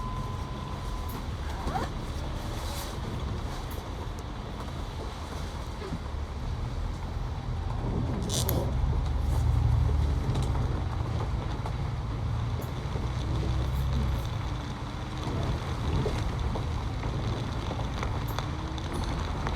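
Steady low rumble of a road vehicle's engine, swelling around the middle, with a short hiss about eight seconds in.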